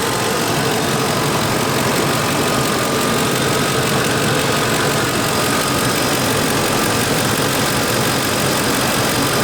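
Ford F-150 pickup engine idling steadily, with a faint steady whine above the running.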